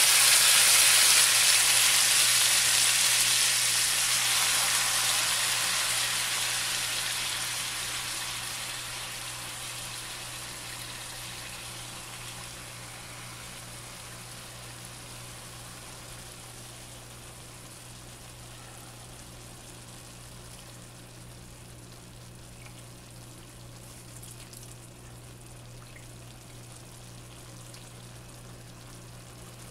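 Adobo sauce hitting hot chicken in a wok: a loud sizzle right at the start that dies down over about ten seconds to a quieter, steady simmering hiss. A low steady hum runs underneath.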